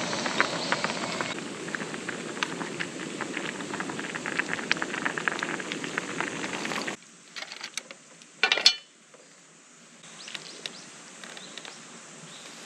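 Wood campfire crackling with many small pops over a steady hiss. About seven seconds in it cuts off suddenly to a quieter background, broken by one short loud rustle shortly after.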